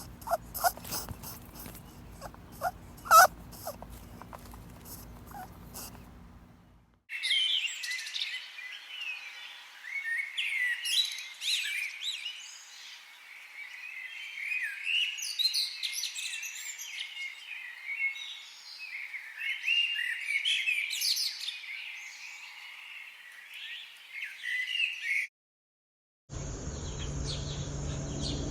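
Many small birds chirping and twittering over each other in dense, overlapping calls, after a few seconds of scattered clicks and scraping. The chirping stops suddenly, and a different recording with a steady high buzz starts near the end.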